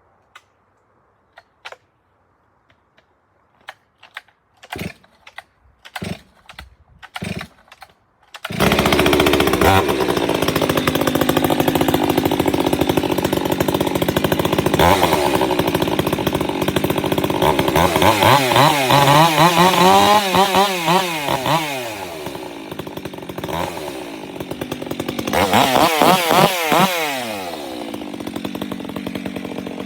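Stihl MS 362 two-stroke chainsaw cold-started: several short pulls on the starter cord, then it catches about a third of the way in and runs at a fast idle. It is revved up and down twice before settling back to idle, and cuts off at the very end.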